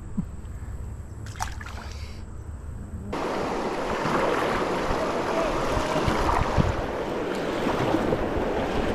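Creek rapids rushing around a kayak: a loud, steady hiss of whitewater that comes in suddenly about three seconds in, after a faint low rumble.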